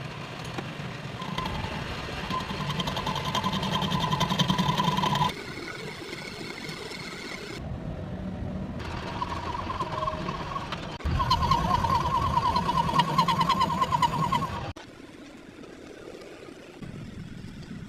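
A power tool working on a truck wheel lug stud's threads, running with a fast, even rattle and a low hum in two long runs, each of which cuts off suddenly.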